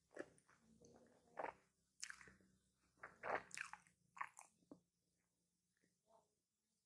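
Close-up mouth sounds of biting and chewing a footlong hot dog in a bread bun: a quick run of crunchy, moist bites and chews, dying down to a few faint ones near the end.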